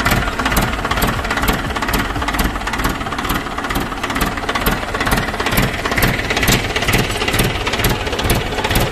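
Tractor diesel engine idling with an even, rhythmic clatter, running to circulate freshly changed engine oil through the engine. It cuts off suddenly near the end.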